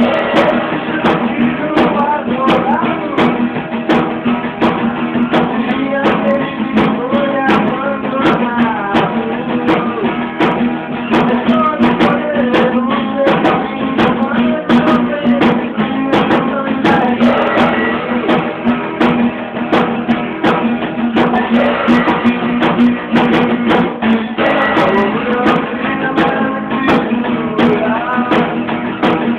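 Amateur band playing a song live: guitar strummed at a quick pace, with sharp percussive strokes throughout.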